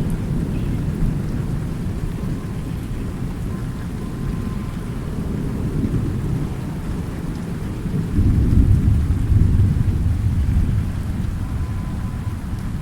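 Thunderstorm: steady rain with continuous low rolling thunder, which swells to a louder rumble about two-thirds of the way through before easing back.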